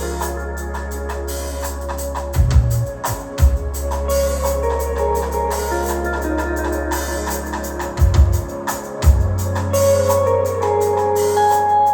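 Live rock band playing an instrumental passage: a held bass note and sustained guitar or keyboard notes, with heavy drum-kit hits twice about two and a half seconds in and twice again about eight seconds in.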